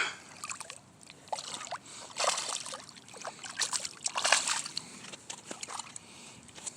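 Water sloshing and splashing in short, irregular bursts, with small clicks between them.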